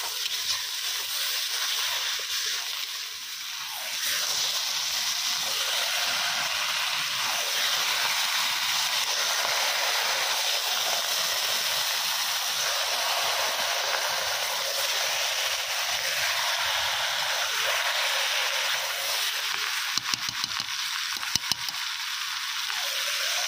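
Chicken pieces and spice masala sizzling as they fry in a large iron pot, a steady hiss that grows louder about four seconds in, with a few sharp knocks near the end.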